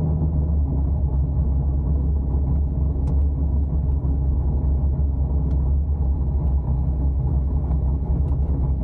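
Cammed C5 Corvette Z06's LS6 V8 running through long-tube headers and Borla ATAK mufflers: a loud, steady, deep exhaust rumble with an uneven, choppy beat.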